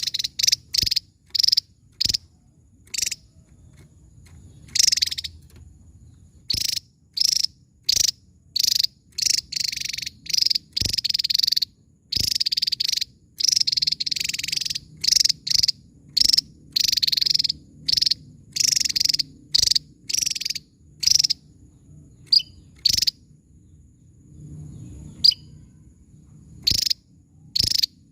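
Javan tesia giving a long series of short, sharp, high calls, close together in the middle and more widely spaced near the end.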